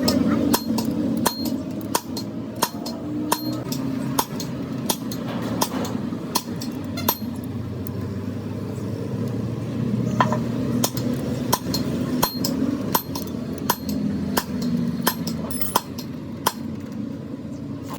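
Irregular sharp metallic taps and clinks, several a second at times, over a steady low mechanical hum.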